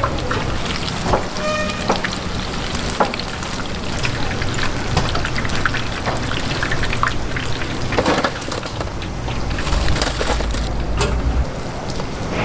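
Steady crackling sizzle, like food frying in hot oil, mixed with small clicks and knocks of cooking utensils; a brief tone sounds about a second and a half in.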